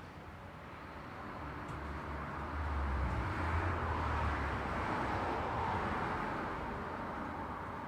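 Road traffic: a vehicle passes, its low engine rumble and tyre hiss swelling over the first three seconds or so, then fading slowly.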